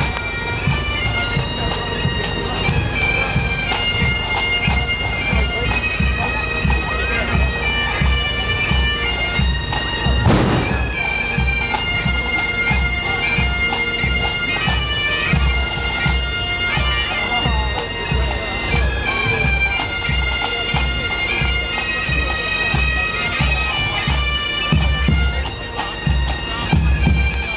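Pipe band playing: bagpipes with steady held drones and a melody over a regular marching drum beat. A single sharp bang sounds about ten seconds in.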